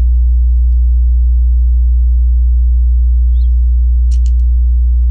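Loud, steady low electrical hum with a ladder of fainter overtones, unchanging throughout. A few faint clicks come about four seconds in, from plastic Lego pieces being handled.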